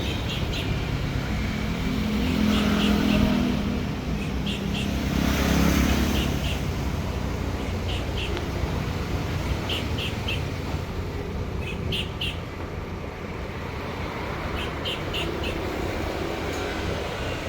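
An engine runs steadily with a low rumble, growing louder for a moment about two seconds in and again about five seconds in. Over it, a bird chirps repeatedly in short groups of two or three notes every second or two.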